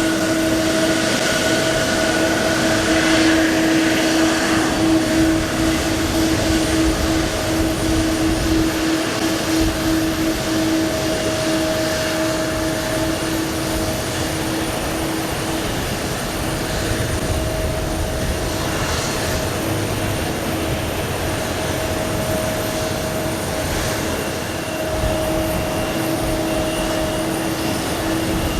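Boeing 777-300's Pratt & Whitney PW4090 turbofan engines running, a steady jet whine with two held tones over a broad rush of noise.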